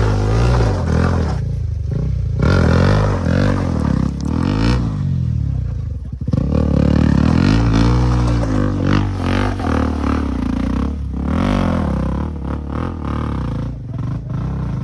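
Adventure motorcycle engine revving up and down repeatedly, its pitch rising and falling, with a brief drop in throttle about six seconds in.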